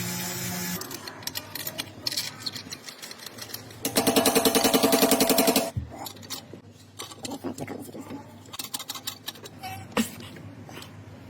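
BMW M5's twin-turbo V8 through a cat-delete exhaust, crackling and popping irregularly, with a loud rapid rattling burst for about two seconds near the middle and one sharp crack near the end.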